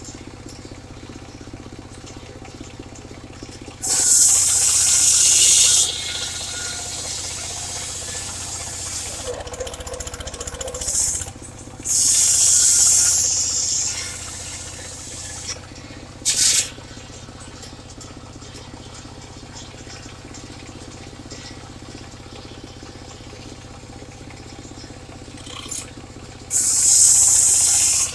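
Portable circular sawmill running steadily, its saw blade cutting into wood in three loud, high-pitched stretches of about two seconds each and one brief one.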